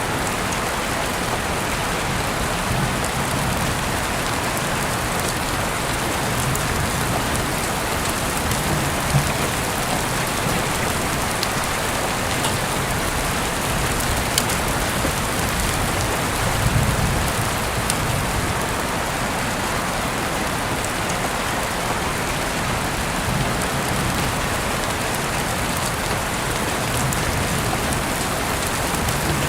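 Heavy rain falling steadily, with scattered sharper drop ticks over the dense hiss and a brief low rumble a little past halfway.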